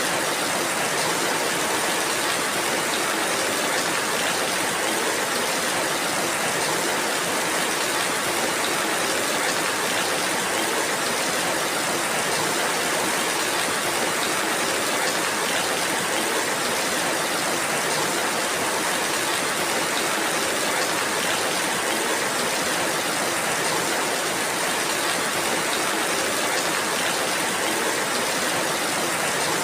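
Steady rain falling, an even hiss of many small drops with no let-up.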